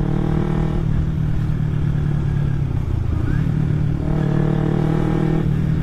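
Kawasaki Ninja 250 carburetted parallel-twin engine through an aftermarket Akrapovic-style exhaust, running at a steady cruise. The drone blurs into a rougher, noisier stretch after about a second, dips briefly around the middle, then settles back to a steady note.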